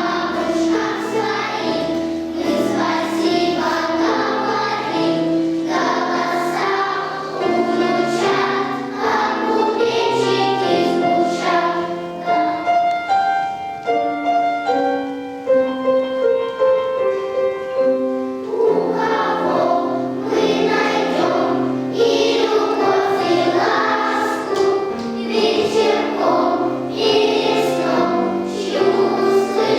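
Children's choir singing a song with instrumental accompaniment. In the middle, for several seconds, the voices give way to held accompaniment notes, then the singing comes back in.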